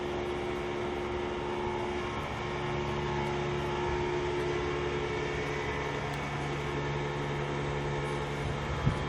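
A steady mechanical hum with a few steady tones, like a running engine or machine. A lower tone joins about two and a half seconds in, and there is a short sharp click near the end.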